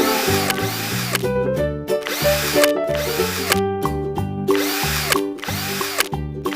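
A small electric drill or power screwdriver runs in several short bursts of about a second each, whining up and down in pitch, over background children's music.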